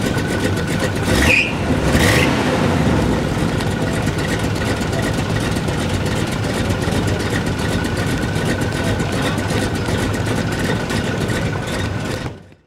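Car engine running steadily close by, with two brief louder swells about one and two seconds in; the sound cuts off abruptly near the end.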